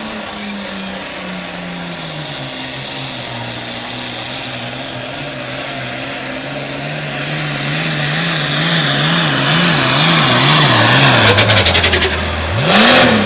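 Turbocharged diesel engine of a Limited Pro Stock pulling tractor under full load hauling the sled. The engine note sags as the engine lugs down, then wavers up and down as it fights the load, growing louder over the last few seconds. Near the end it revs up sharply and drops back with a loud burst of noise.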